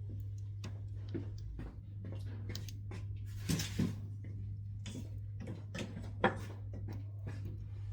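Pine woodworking offcuts burning in a wood stove, crackling with irregular snaps and ticks; a short hiss comes about halfway and one sharp pop about three quarters in. A steady low hum sits underneath.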